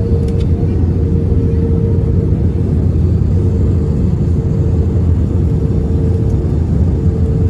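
Steady low rumble of an Airbus A320 heard from inside the passenger cabin, with a steady hum over it.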